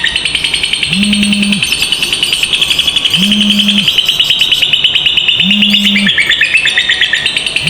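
Lovebirds giving a long, unbroken ngekek: a very fast, high chattering trill that runs on without a pause, the kind of extended trill prized in lovebirds used as a master sound for training other birds. Underneath, a low hum swells and fades about every two seconds.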